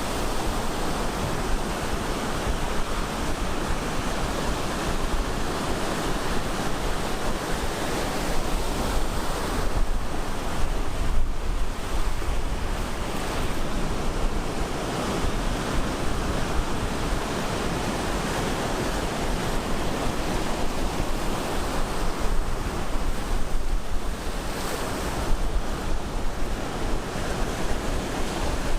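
Ocean surf breaking and washing continuously on the shore, a dense steady roar of waves that swells a little now and then.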